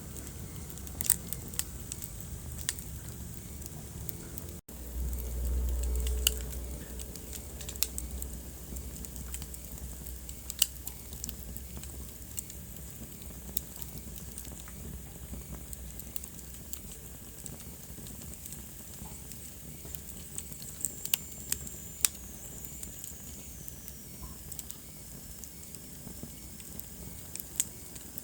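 Wood fire burning in a fireplace, crackling with scattered sharp pops over a steady hiss. A low rumble swells for a couple of seconds about five seconds in. Later a thin whistle falls in pitch.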